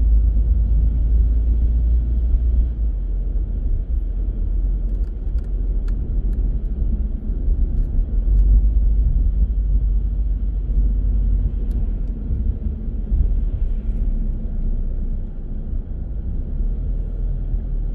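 Car driving: steady low rumble of the engine and tyres on the road, with a few faint clicks.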